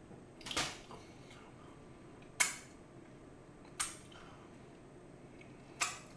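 Close-up eating sounds of someone chewing seasoned fried chicken: four short, sharp mouth sounds, roughly one every one and a half to two seconds, over a faint steady background.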